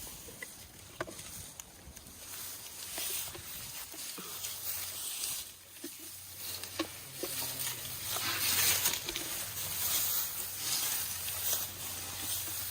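Leafy branches rustling and crackling as elephants handle and chew them, a hissing rustle that swells and fades in waves with scattered short snaps.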